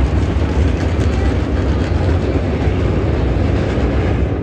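Dirt late model race cars running on the track: a loud, steady, low rumble of engines without a single clear engine note.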